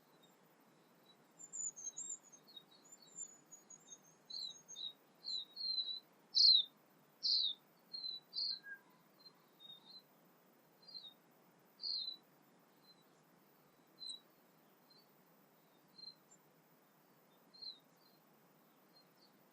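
A bird singing a run of short, high chirping notes, some sliding downward. The notes come quickly about a second in and grow loudest near the middle, then thin out to single chirps a second or two apart, over a faint steady hiss.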